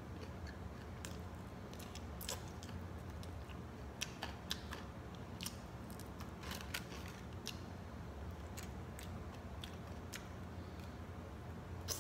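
Close-up eating sounds from bone-in chicken wings: chewing and biting meat off the bone, with irregular short mouth clicks, the loudest about four seconds in and again near the end.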